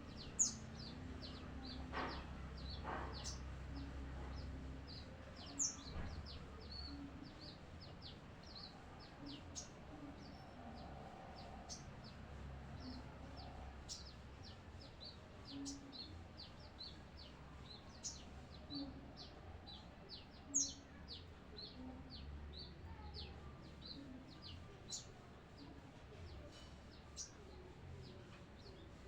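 Brown-throated sunbird giving many short, high, thin chirps and twitters, a few sharper and louder than the rest: a newly caught bird just beginning to sing.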